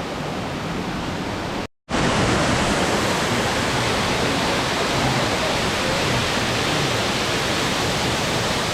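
Waterfall rushing: a steady, even roar of falling water, broken by a brief dropout about two seconds in, after which it is a little louder.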